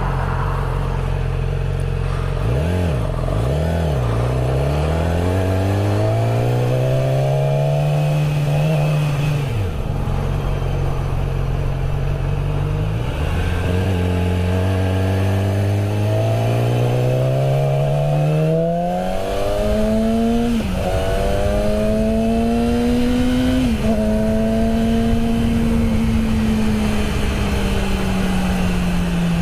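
Honda Grom's small single-cylinder four-stroke engine on its stock exhaust, pulling while riding, its pitch climbing then dropping sharply at each gear change, about half a dozen times.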